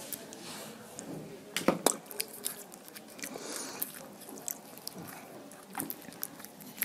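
Wet, close-miked chewing and lip-smacking on juicy fresh pineapple flesh: many small sticky clicks, with two louder sharp clicks a little under two seconds in.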